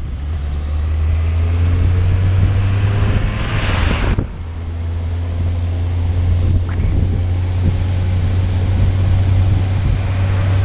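Motorcycle engine running steadily at cruising speed, with wind noise over the microphone. A rush of noise builds and cuts off suddenly about four seconds in.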